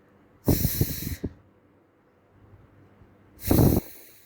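A woman saying the phonics sound 'f', a breathy 'fff' hiss, twice. Her breath blows onto the microphone with low pops.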